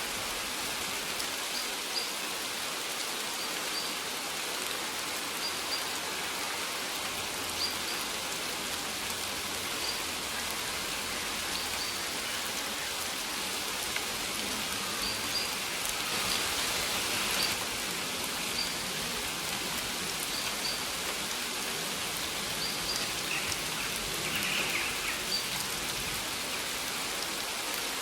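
Steady rain falling, with short high bird chirps recurring every second or two.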